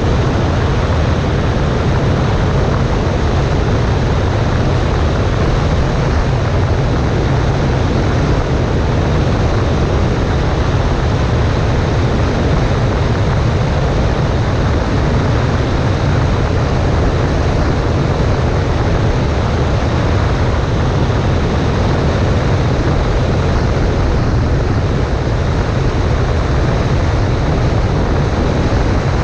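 Cessna 140A light aircraft in steady flight: a constant, loud drone of engine and propeller mixed with rushing air, with no change in power.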